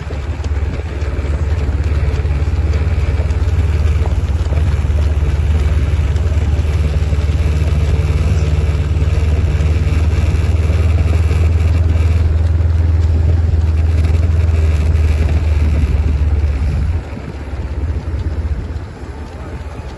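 A vehicle engine running steadily at low speed as a loud low hum, easing off about three seconds before the end.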